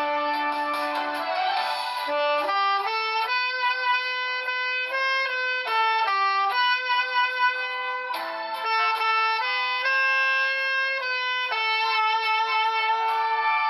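Tenor saxophone playing a slow melody, a run of sustained notes that step up and down in pitch.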